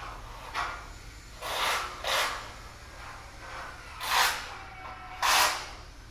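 Five short hissing bursts of spray, each under half a second, over a low steady hum.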